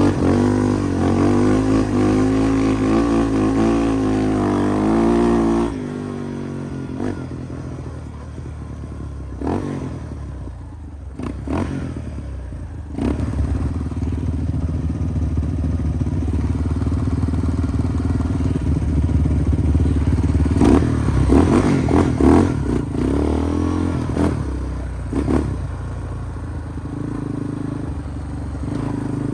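Off-road vehicle engines running while riding, the revs rising and falling for the first six seconds, then dropping lower for several seconds with some rattles and knocks, and revving up and down again about two-thirds of the way in.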